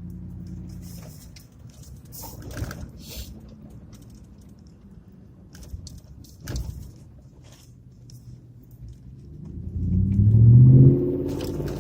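Pickup truck engine running while driving, then speeding up with a rising pitch about ten seconds in, the loudest part; a few knocks earlier.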